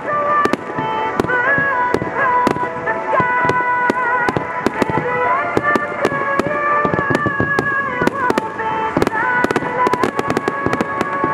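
Underwater fireworks going off in rapid succession in a finale barrage: many sharp bangs and crackles, one after another. Music with held melody notes plays underneath.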